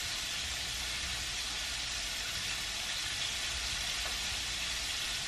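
Food frying in a pan: a steady sizzling hiss, with a faint low hum underneath.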